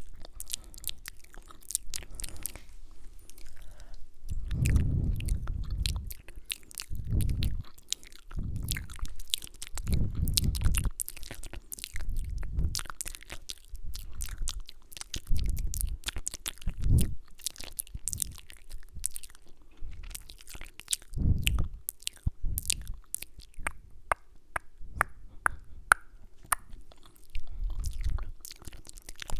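Close-mic ASMR mouth sounds: many wet clicks and kissing smacks, with soft low thuds every second or two between them.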